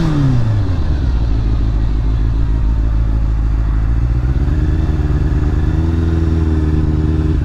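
Honda CBR motorcycle engine dropping from revs to idle in the first second, then idling steadily. Its pitch lifts slightly a little past halfway.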